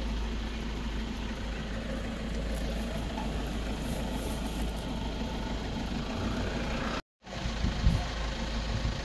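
Safari jeep's engine idling with a steady low rumble. The sound cuts out for a split second about seven seconds in, followed by a short knock.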